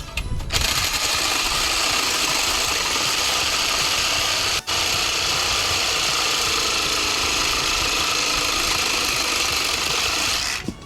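Battery-powered saw running under load as it makes a cut, with a steady buzzing rattle. The trigger is let off for an instant about four and a half seconds in, and the saw stops just before the end.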